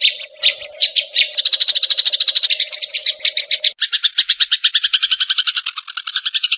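Sparrows' fighting chatter: a fast string of harsh chirps that begins with a few spaced notes and soon runs together at about ten notes a second, switching about four seconds in to a lower, fuller rattling note. A faint steady hum sits under the first half.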